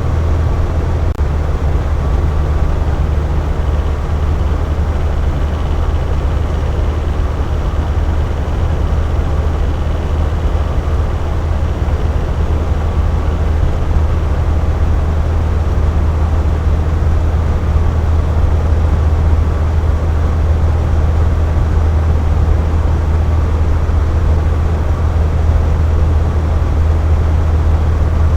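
Electric box fan running steadily: a continuous rushing of air with a deep low hum, unchanging in level.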